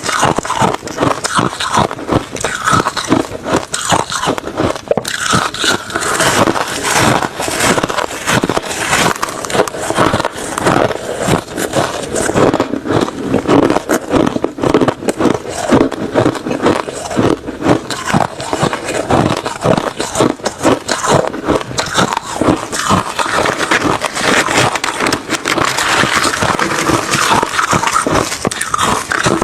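A person biting and chewing refrozen crushed ice mixed with shaved ice: rapid, irregular, continuous crunching of ice between the teeth.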